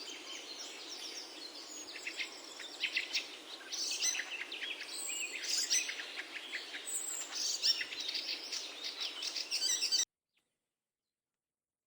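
Small birds chirping: many quick, high, overlapping chirps over a faint steady hiss, cutting off abruptly near the end.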